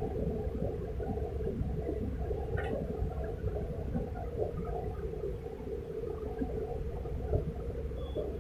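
Steady low background hum and rumble in a small room, with no distinct events.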